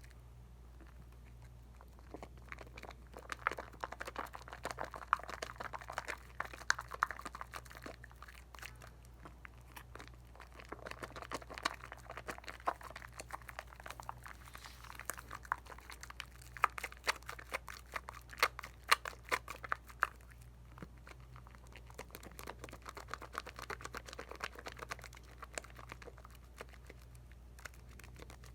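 Bar of Dial coconut soap being worked into lather with wet hands: a dense fine crackle of many small clicks, coming in four spells of several seconds each with short lulls between. A steady low hum runs underneath.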